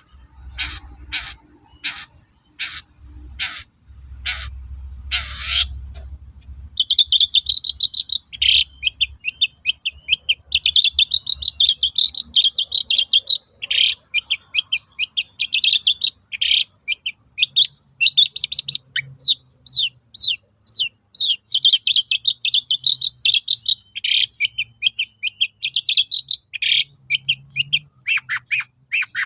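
Long-tailed shrike (cendet) calling: first a series of short, harsh calls, a little under two a second. Then, about seven seconds in, it breaks into a fast, unbroken, high warbling song of quick varied notes.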